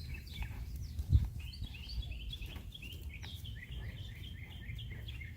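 Birds chirping in quick short notes over a low steady rumble, with a single thump about a second in.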